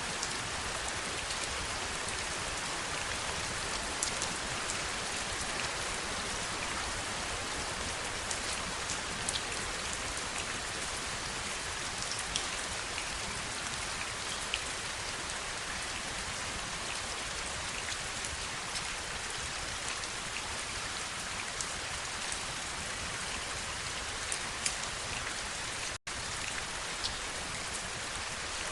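Steady rain falling, an even hiss with scattered sharper drop ticks. Near the end the sound cuts out for an instant and comes straight back.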